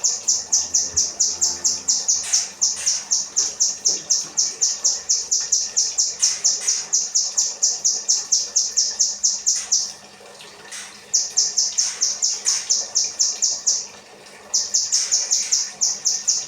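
Kinoi songbird singing nuthatch-style (rambatan) phrases: long runs of rapid, evenly repeated high notes, about four a second, broken twice by brief pauses about ten and fourteen seconds in.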